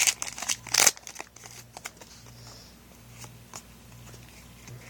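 Foil booster pack crinkling and tearing as it is opened, loud for about the first second. After that come quieter, scattered clicks and rustles as the cards are handled.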